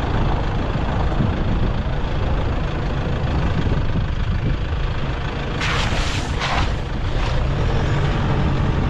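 A vehicle driving, with a steady low engine and road rumble. A few seconds before the end come three short hissing scrapes.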